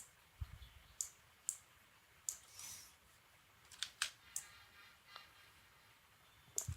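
Faint, irregular clicking of a computer mouse, about eight clicks spread unevenly, with a brief soft swish a little under three seconds in.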